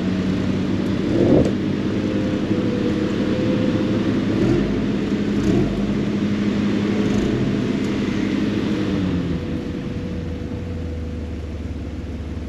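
Vehicle engine held at raised revs under load during an off-road winch recovery. It runs steadily, then eases off about nine seconds in.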